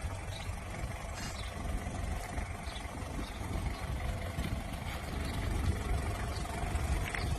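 An engine idling steadily, with a low rumble.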